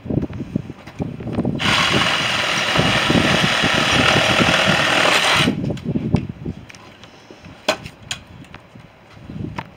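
A handheld power tool runs for about four seconds, starting about one and a half seconds in and cutting off suddenly, with a few short knocks before and after.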